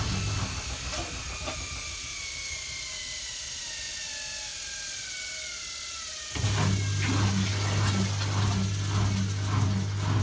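Zanussi ZWF16070W1 washing machine winding down from its 1600 rpm final spin: a low hum cuts out and the drum's whine falls steadily in pitch as it coasts down. About six seconds in, a loud low hum starts suddenly, pulsing about twice a second.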